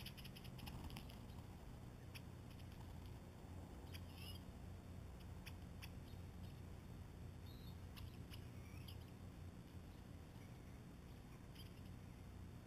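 Faint outdoor quiet with a low steady hum, broken by a few short, high songbird chirps and scattered small clicks.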